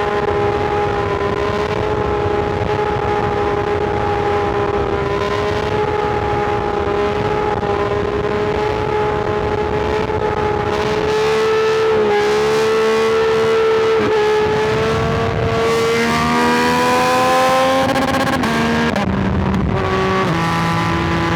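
Yamaha R9 sport bike's inline-three engine heard from the rider's seat under steady throttle at a constant pitch, with wind rush. About halfway through the pitch dips and climbs again as it shifts and accelerates, then near the end it falls in three or four sudden steps.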